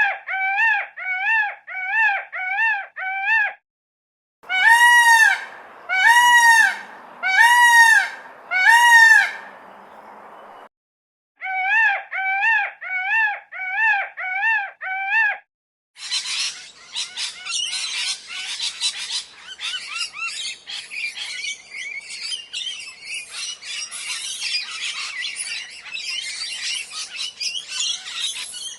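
A sequence of different birds calling. First comes a run of short calls repeated about twice a second, then four loud drawn-out calls about a second and a half apart, then another quick run of short calls. From about sixteen seconds in there is dense, high, continuous chirping of many small birds.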